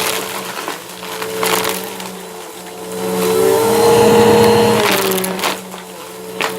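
Bissell vacuum cleaner running with its brushroll crunching and crackling over debris as it is picked up. The crunching swells from about three seconds in, with the motor's tone wavering, then eases off near the end.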